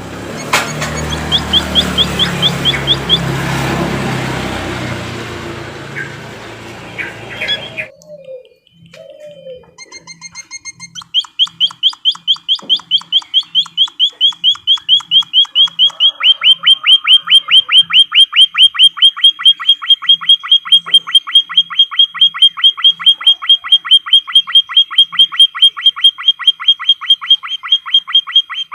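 Bird-song training recording of an emprit kaji (white-headed munia): first a noisy stretch with a brief run of high chirps, then, from about eleven seconds in, a long, even series of rapid high chirps, about five a second.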